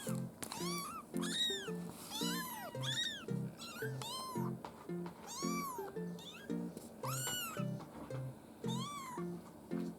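A young kitten mewing repeatedly: about a dozen short, high-pitched mews that rise and fall in pitch, over light background music.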